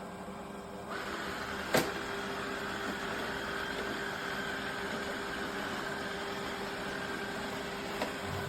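iRobot Roomba Vac Essential (Q0120) robot vacuum starting up: its motor noise rises about a second in, a single sharp click follows shortly after, and then it runs with a steady whirring hum.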